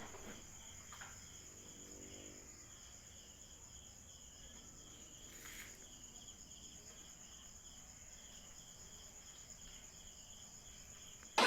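Faint high-pitched insect chirping: a steady high trill with a regular pulsing call about three times a second.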